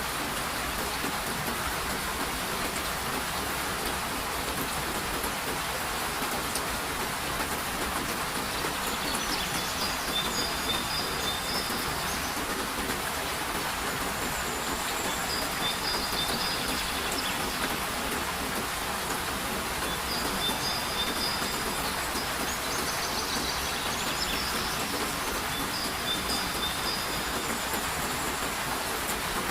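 Steady rain falling, with a bird singing short, high phrases that recur every few seconds from about a third of the way in.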